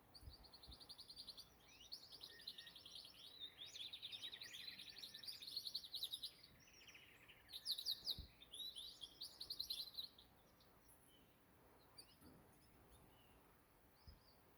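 Canary singing a run of rapid trills and chirps that stops about ten seconds in.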